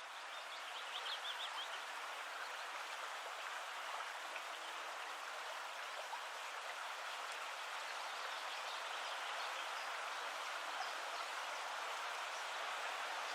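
Steady, even rushing noise, with a quick run of faint high chirps about a second in.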